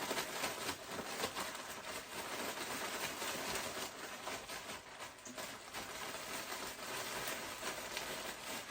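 Fish deep-frying in hot grease: a steady crackling sizzle.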